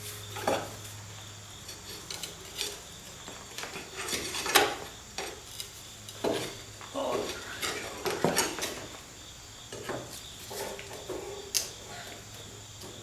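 Irregular metal clinks, knocks and short scrapes as tools work against the steel front suspension cross member of a Rolls-Royce Phantom III, trying to shift it free of the chassis.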